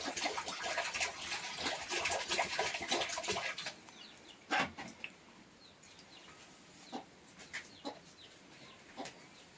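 Chickens clucking amid scratching and tapping noises, busy for the first three seconds or so, then quieter with a few scattered clicks and short calls.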